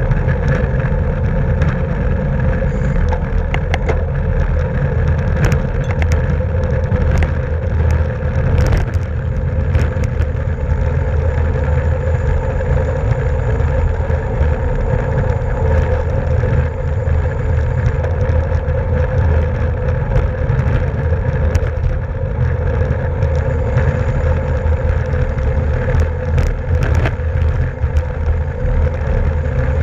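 Wind and road noise from a bicycle ridden at race speed: a steady low rumble with a constant hum over it and scattered small clicks.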